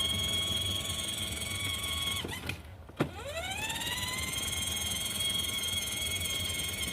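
Electric motor of a child's battery-powered ride-on toy car whining as it drives. The whine cuts out a little over two seconds in, then rises in pitch as the motor spins back up about a second later and holds steady.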